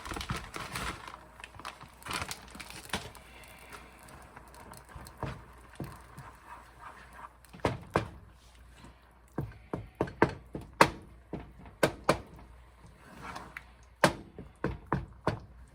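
Kitchen clatter: a series of sharp, irregular knocks and clicks, most of them in the second half, after some lighter rustling and handling at the start.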